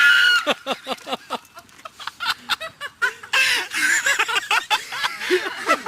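People laughing and shrieking excitedly in quick short bursts, with a louder shout in the middle.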